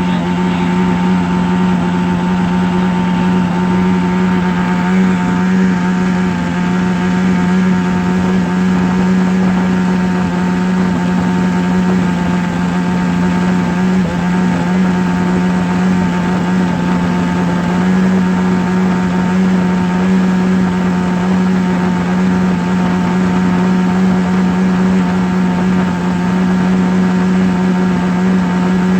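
Steady, unchanging low hum at one pitch with overtones above it, the buzz of a small motor or vibrating device running at constant speed.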